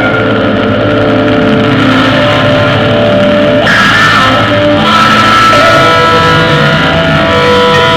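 Loud rock music with distorted electric guitar and drums.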